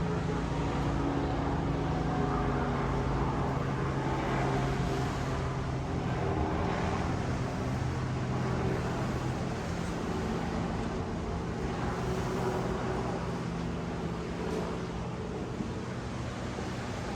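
A motor engine humming steadily over a wash of surf, easing off slightly near the end.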